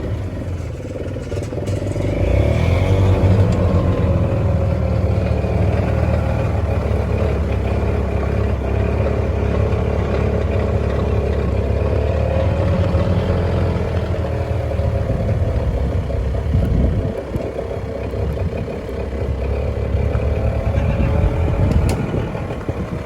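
A motor vehicle's engine running over a low rumble, its pitch slowly rising and falling as it is revved.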